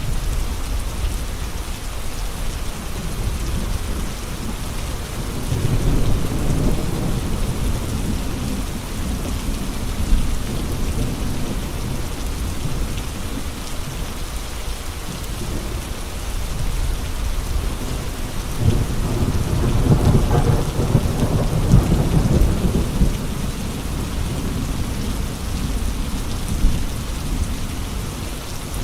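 Steady heavy rain with gusting wind. Low rumbling swells rise and fall about six seconds in and again, longer and stronger, from about nineteen to twenty-three seconds in.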